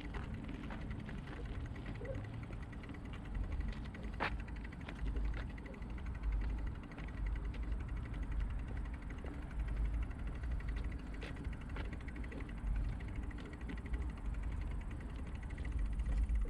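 Wind buffeting the microphone of a bike-mounted action camera while riding, with a steady low rumble and scattered clicks and rattles from the bicycle over bumps; one sharper click about four seconds in.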